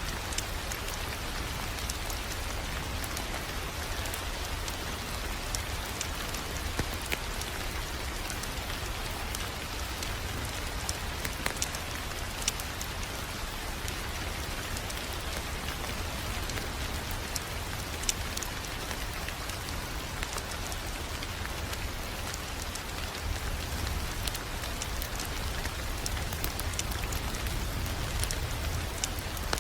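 Wood fire crackling: a steady hiss with scattered sharp pops and clicks, over a low rumble.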